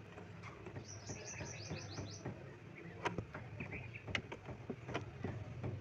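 Birds chirping, a quick run of high chirps about a second in and more a little later, with several sharp clicks and taps from work on the sewing machine's needle plate around the middle and toward the end.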